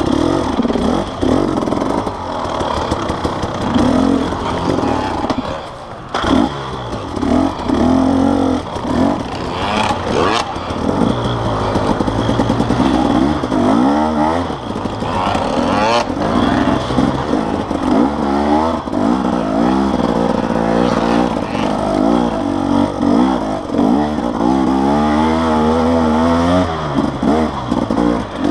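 Enduro motorcycle engine heard on board, revving up and falling back again and again as the bike rides a rough dirt trail. Occasional knocks and rattles come from the bike, sharpest about 6, 10 and 16 seconds in.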